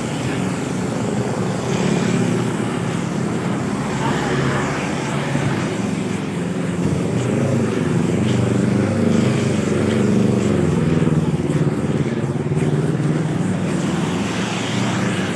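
Motorcycle engine running while riding, its pitch rising and falling a few times around the middle, over steady road noise.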